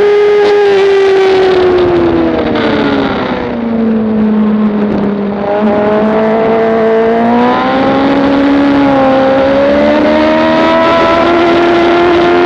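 Motorcycle engine at speed on a racetrack, heard from on board with wind rush. It is held high, then drops in pitch over about two seconds as the bike slows, runs low for a few seconds, and climbs steadily again from a little past halfway as the bike accelerates.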